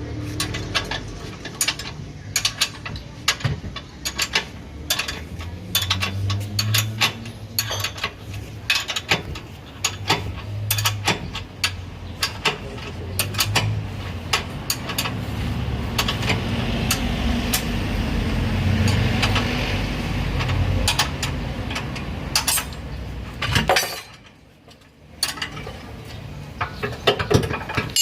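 Metal hand tools and car parts clinking and tapping at irregular intervals, with a low hum underneath.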